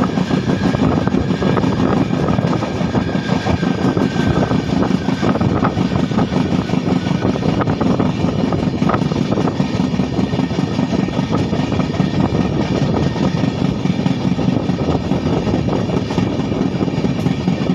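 Running noise of an Indian Railways train at speed, heard from the moving coach: a steady rumble of wheels on the rails with rushing air and scattered clicks.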